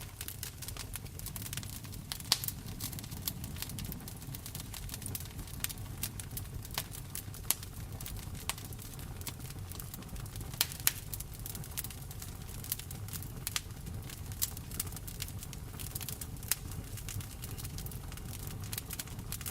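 Wood fire in a fireplace crackling, with irregular sharp pops, a few of them much louder, over a steady low rumble of rain.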